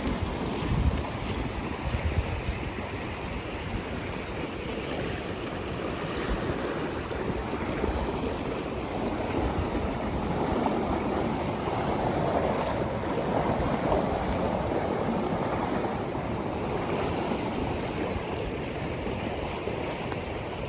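Flooded creek rushing steadily through high water, a constant roar of swollen current. Wind buffets the microphone in the first second or so.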